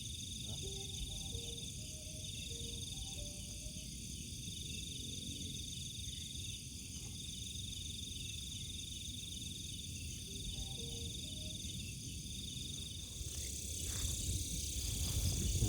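Night insect chorus of crickets, a steady high pulsing trill, over a low rumble. Faint short tones stepping down in pitch come through near the start and again about ten seconds in.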